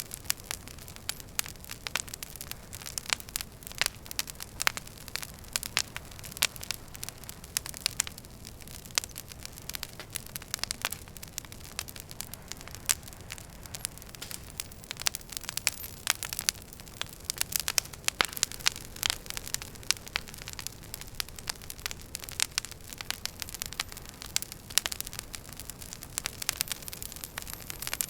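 Wood fire crackling in a fireplace: dense, irregular sharp pops and snaps over a steady low rush of burning.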